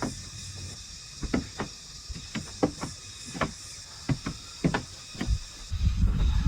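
A series of irregular light knocks and clicks, roughly two a second, over a steady high hiss, with a low rumble rising near the end.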